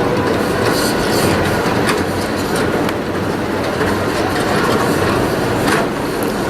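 Wildwood boardwalk tram car rolling past: a steady rumble with a few sharp clacks, the loudest just before the end.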